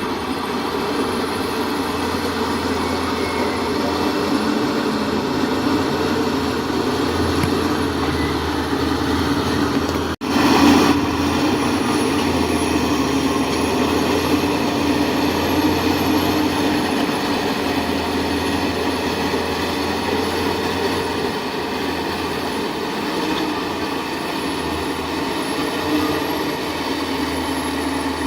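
Heavy earthmoving machinery, a tracked bulldozer or dump truck, running steadily with a dense mechanical drone. About ten seconds in the sound breaks off for an instant, then is briefly louder.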